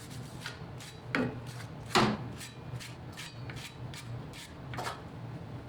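Scattered knocks and scrapes of rusty metal chassis parts being handled, with two louder knocks about one and two seconds in, over a steady low hum.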